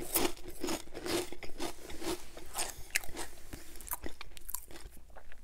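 Close-miked chewing of a crunchy potato chip: an irregular run of crisp crunches and wet mouth sounds.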